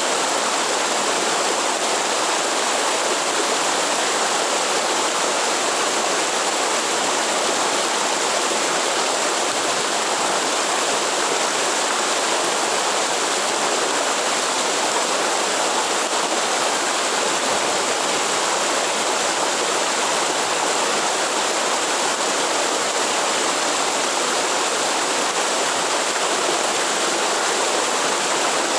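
Steady rush of flowing water from a waterfall or stream, unchanging throughout.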